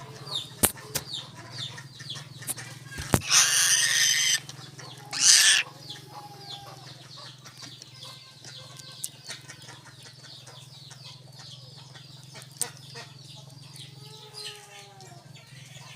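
Birds calling with rapid, repeated short falling chirps, broken about three and five seconds in by two loud rushing bursts of noise, with scattered sharp clicks and a steady low hum underneath.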